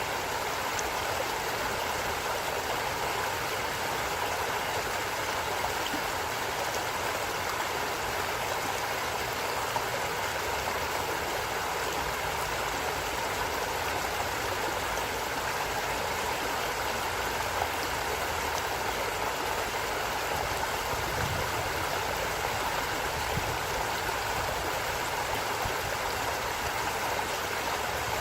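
Water of a stream flowing steadily over rocks, a continuous even rush without pauses.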